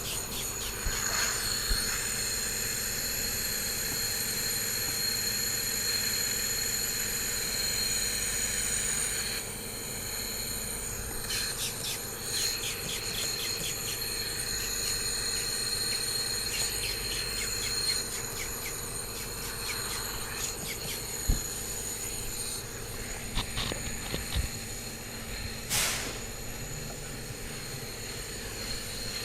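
Steady high-pitched machine whine with a low hum and a hiss that drops away about a third of the way in, broken near the end by a few sharp clicks and knocks of plastic headlight parts being handled.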